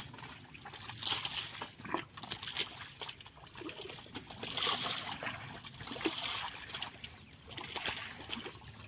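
Wet mud and water sloshing and splashing irregularly, with short sucking and slapping sounds, around a tractor stuck in a muddy field.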